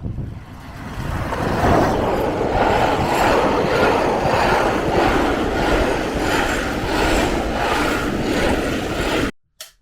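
A train running, heard as a steady rumbling noise with a faint regular beat, which cuts off suddenly near the end.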